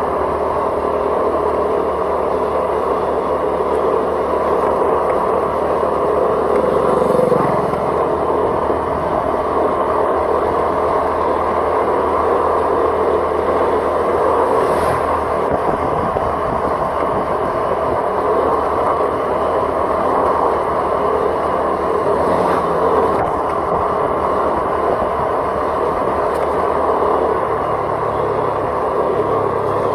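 Steady engine and road noise from a vehicle being driven along a road.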